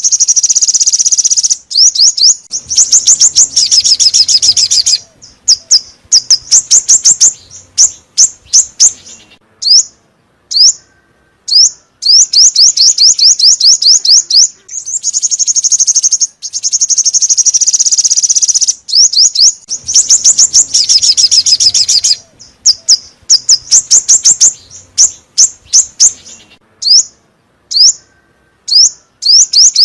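Recorded song of the bird known in Vietnam as 'chim 5 màu' (five-colour bird), a lure call for bird catching. Fast trills of high, quickly falling chirps alternate with separate single chirps, and the same sequence comes round again about every 17 seconds.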